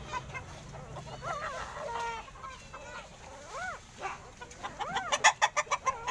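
Several young puppies whimpering and whining in short calls that rise and fall in pitch. Near the end the calls turn into a rapid run of sharp squeals, several a second.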